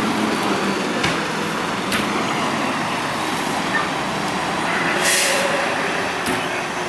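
Traffic noise from a heavy vehicle, with a short, loud burst of hiss about five seconds in, like an air brake venting, and a few sharp clicks.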